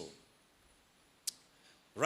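Near silence in a pause between spoken sentences, broken by one brief, faint click about a second and a quarter in.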